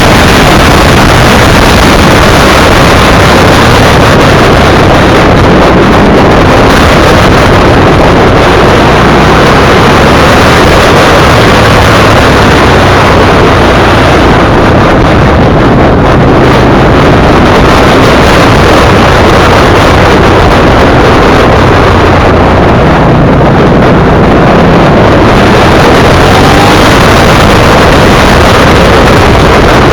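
V-twin sport motorcycle on the move, its engine running under wind rushing over the camera microphone. The recording is very loud and overloaded, a steady dense noise with no clear engine note standing out.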